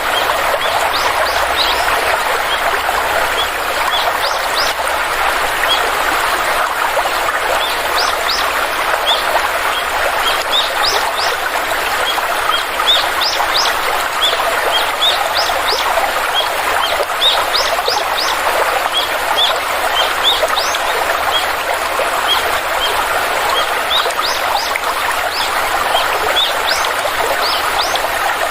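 Stream water flowing steadily, with birds chirping repeatedly over it: short, high, rising chirps, several a second in clusters.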